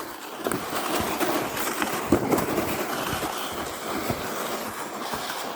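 Footsteps crunching on snow, with a sled sliding and scraping over the snow on a downhill path; irregular crunches over a steady rough scraping.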